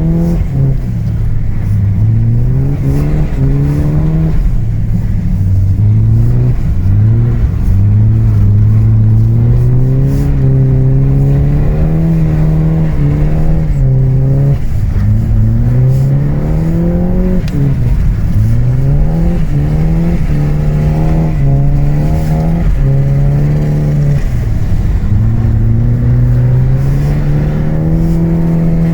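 Saab B204 inline-four engine in an Opel Omega being driven, its revs rising and falling again and again every few seconds.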